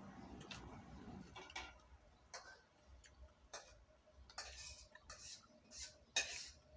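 Faint, irregular short clicks and ticks, about a dozen over several seconds, with one sharper click near the end.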